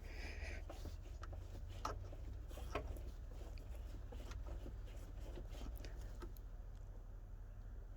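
Faint scattered clicks and rubbing of hands working a rubber radiator hose off its neck, over a low steady hum.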